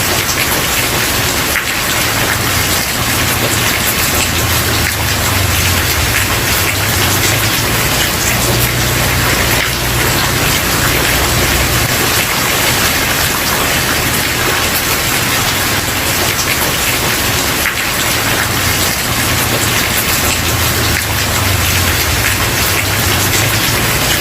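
Steady, dense rain falling on a wooden porch, with a low rumble underneath that swells and fades.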